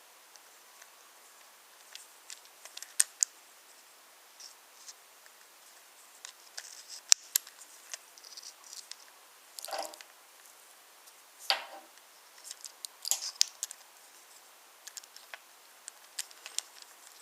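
Wooden toy trains and wooden track pieces handled and moved: scattered light clicks and taps, with two short scrapes about ten and eleven and a half seconds in.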